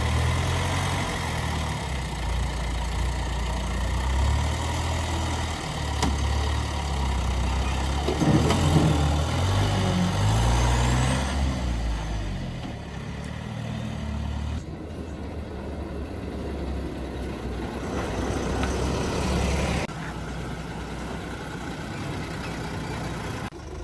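Cargo truck's engine running as the truck is driven, its low note shifting up and down in steps; the engine sound drops away a few seconds before the end.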